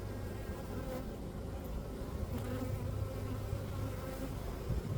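Steady buzzing of a honeybee colony in an opened hive.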